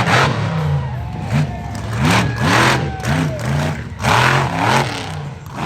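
Motor vehicle engine revving in repeated throttle bursts, its pitch rising and falling several times in quick succession.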